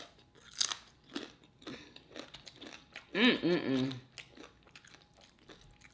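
Crunchy homemade tortilla chips being bitten and chewed close to the microphone, a run of short crisp crackles, with a brief voiced sound from the eater about three seconds in.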